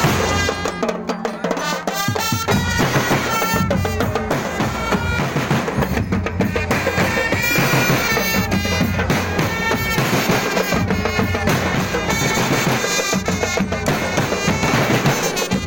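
Traditional drum-led ensemble music, with a reedy wind instrument playing a bending melody over steady drumming.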